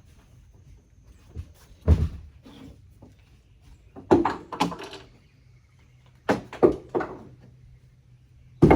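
A series of loud knocks and thumps, four groups about two seconds apart, from hard objects being handled and set down or shut.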